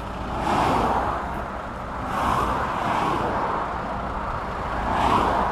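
Traffic passing on a dual carriageway: three vehicles go by in turn, each a swell of tyre and engine noise that rises and fades, over a steady low hum.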